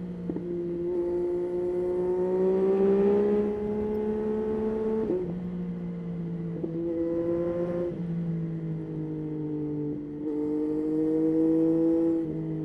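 Yamaha Tracer 9's three-cylinder engine pulling under way, its pitch climbing steadily and then stepping sharply at gear changes, about five times. A hiss of wind rushes along with it.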